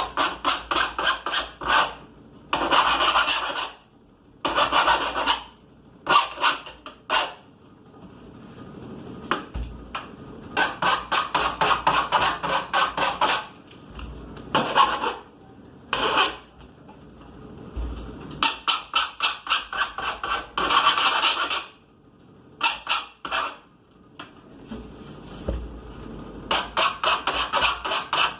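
Bursts of rapid back-and-forth scraping or rubbing strokes, several a second, broken by short pauses.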